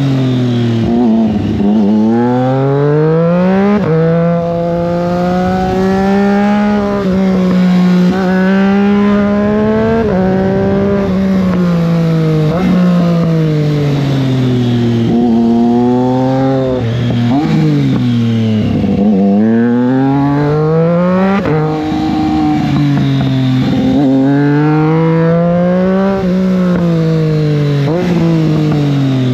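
Triumph Street Triple 660 S's inline three-cylinder engine heard from the bike while riding: the engine note climbs and drops again and again as the throttle is opened and closed, with a few sudden pitch changes.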